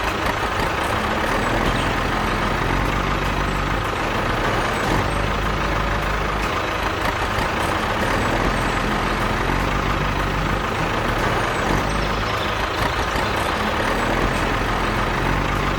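Miniature tractor or truck running steadily: an even engine-like drone with a constant high whine.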